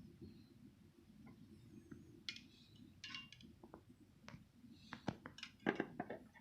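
Scattered light clicks and clinks of tableware being handled on a meal tray, the loudest cluster near the end, over a low steady room hum.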